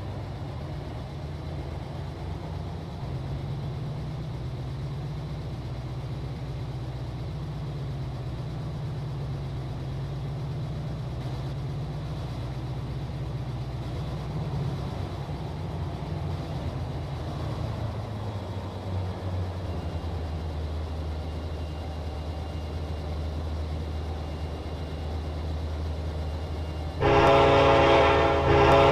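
Diesel freight locomotive engine running with a steady low rumble, its pitch dropping a little about 18 s in; then, about 27 s in, the locomotive's multi-note air horn starts sounding loudly and holds.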